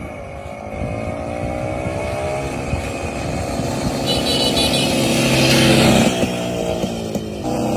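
Minsk 125 single-cylinder two-stroke motorcycle engine running, its pitch rising and falling as the throttle is worked, loudest about five to six seconds in.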